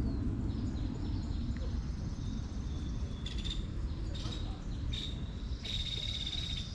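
High, buzzy trilling calls in short repeated bursts from about halfway, the longest near the end, over a steady low rumble.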